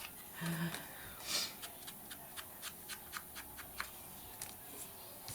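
Hands working with paper at a craft table: a short rustle of paper, then a run of light clicks at about five a second.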